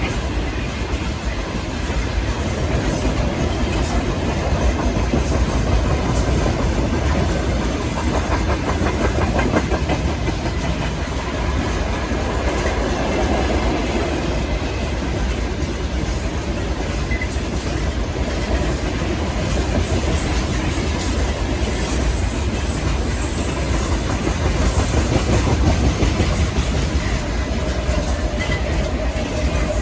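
Heavy freight train passing at full speed, its wagons' wheels clattering steadily over the rails.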